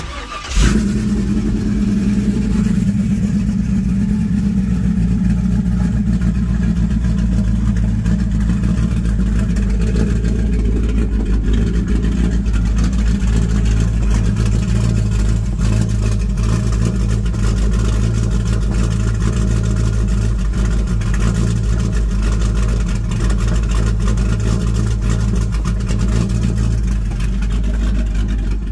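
Cammed 5.3-litre LS V8 starting about half a second in, then idling steadily through a 2.5-inch true dual exhaust with Spintech 6000 mufflers.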